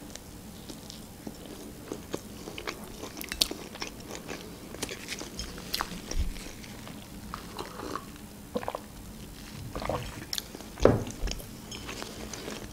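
A person chewing a large mouthful of charlotte (apple sponge cake) close to the microphone: many small mouth clicks and smacks, with one louder knock near the end.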